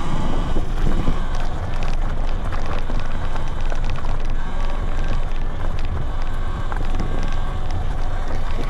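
Wind buffeting a handlebar-mounted microphone on a moving Talaria Sting R MX4 electric dirt bike, with a faint steady electric-motor whine and scattered rattling clicks from the bike.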